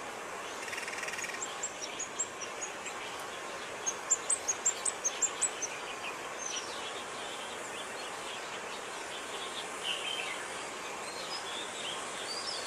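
A bird calling in short, sharp, high-pitched notes: a few scattered notes at first, then a quick run of about eight notes around four seconds in, followed by softer, lower chirps, over a steady background hiss.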